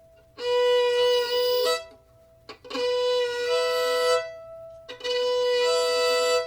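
Fiddle played slowly in three long bow strokes. Each stroke starts on a single note, then the bow tilts down to catch the E string as well, sounding a two-note double stop for the rest of the stroke.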